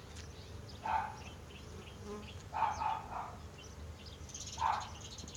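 Honeybees buzzing around an open hive during inspection, with a dog barking a few times at intervals of about one and a half to two seconds.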